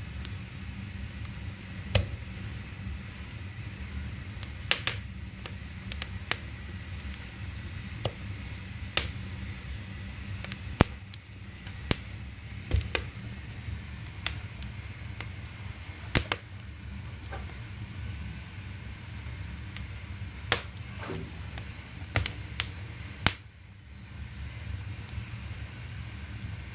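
Oak firewood burning in the open firebox of a wood-fired boiler with its air fan switched off, crackling with sharp, irregular pops over a low steady rumble.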